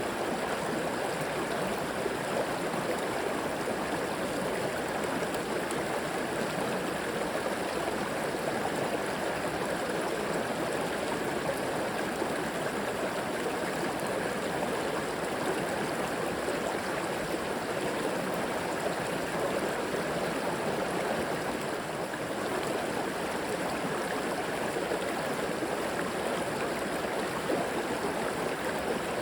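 River or creek water flowing and splashing over rocks, a steady rushing with gurgling.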